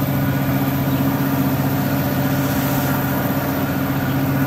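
A passenger train's engine droning steadily under the running noise of the moving train, at an even, unchanging level.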